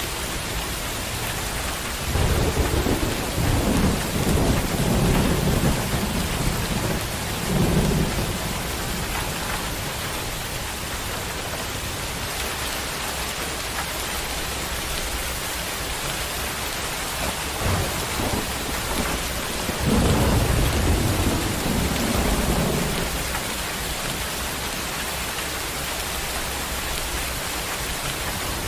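Heavy rain falling steadily, with thunder rumbling twice: once for several seconds starting about two seconds in, and again about twenty seconds in.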